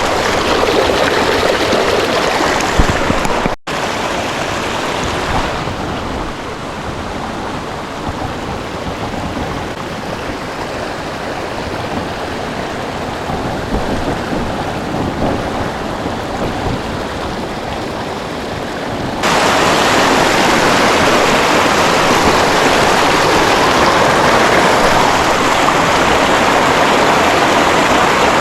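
Steady rush of creek water. It drops out for an instant near the start and becomes abruptly louder about two-thirds of the way through.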